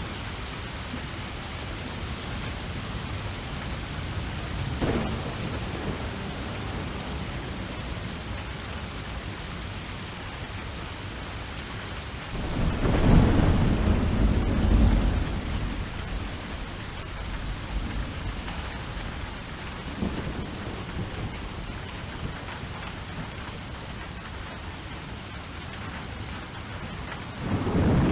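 Steady rain in a thunderstorm, with thunder over it: a short crack about five seconds in, a long low rumble midway through, and another rumble building near the end.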